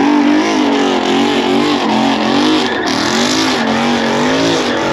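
Car engine revved hard again and again, its pitch swinging up and down about once or twice a second.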